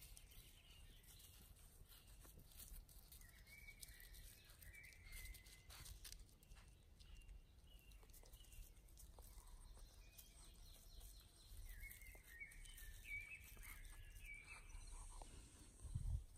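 Faint birdsong: two runs of short high chirping phrases, about three seconds in and again about twelve seconds in, over quiet outdoor ambience with light rustling.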